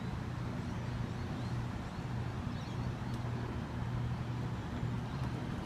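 Steady low hum of an electric passenger train standing at the platform, its onboard equipment running, over a light even background noise.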